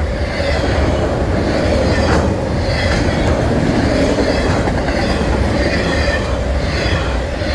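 BNSF manifest freight train's cars rolling past close by: a steady loud rumble of wheels on rail with a constant ringing tone and a few clacks over rail joints.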